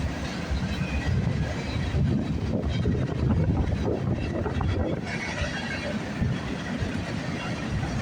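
CN freight train rolling past, a steady low rumble of its wheels and cars on the track.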